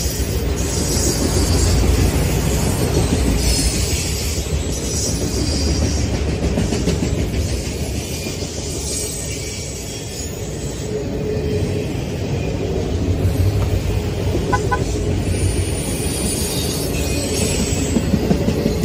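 Freight train of autorack cars rolling past close by: a steady rumble of steel wheels on the rails, with a fainter high hiss over it.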